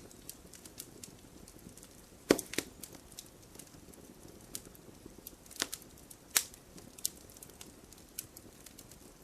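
Wood fire crackling in a fireplace, with scattered sharp pops and small ticks from the burning logs over a soft steady hiss. The loudest pops come a little over two seconds in and again around six seconds in.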